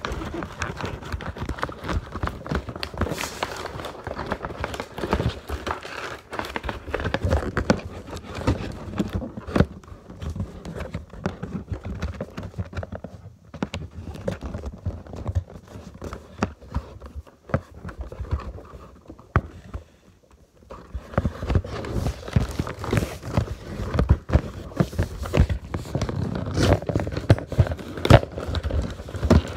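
Cardboard box and plastic packaging being handled while a toy helicopter is unpacked: irregular knocks, clicks, tapping and crinkling, with a short quieter lull about two-thirds of the way through.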